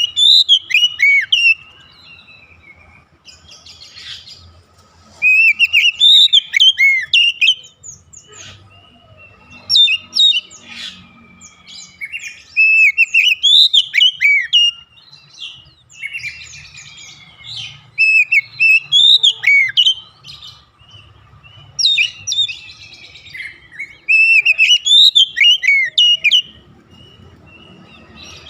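Oriental magpie-robin singing: bursts of quick, varied whistled notes and trills lasting a few seconds each, about six phrases separated by short pauses.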